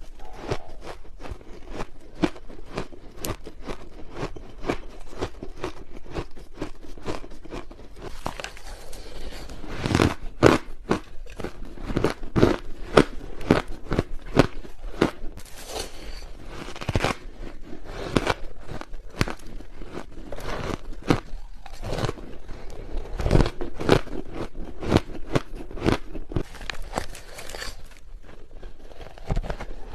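Blended ice being bitten and chewed close to the microphone: a dense run of crisp crunches that grow louder and sharper about a third of the way in.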